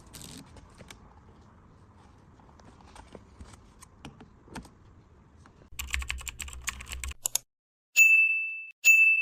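A rapid run of clicks like typing on a keyboard, followed by two loud, high electronic beeps about a second apart, each fading out.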